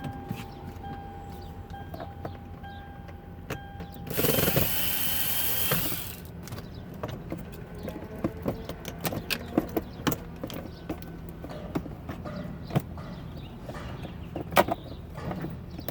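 Scattered plastic clicks and knocks as the Lexus LX470's instrument cluster is handled and worked out of the dashboard, with a loud rushing scrape lasting nearly two seconds about four seconds in.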